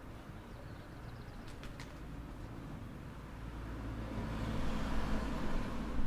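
A passing road vehicle, most likely a car, approaching and growing steadily louder over the second half, a rising rush of noise over a low rumble.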